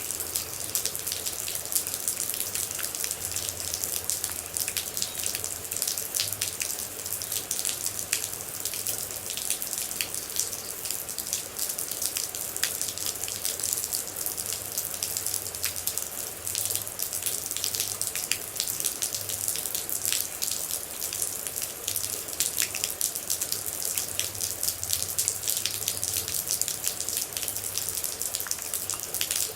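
Rain falling steadily, with a dense run of separate droplet hits over an even hiss.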